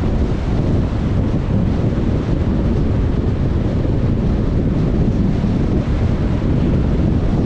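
Steady low rumble of road and wind noise from a car being driven, unchanging throughout.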